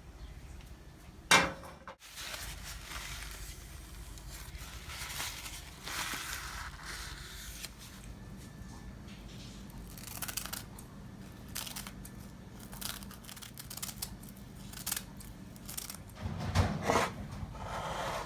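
Kitchen food-prep handling sounds: a sharp knock about a second in, then scattered rustling, scraping and snipping-like noises, and a heavier clunk near the end.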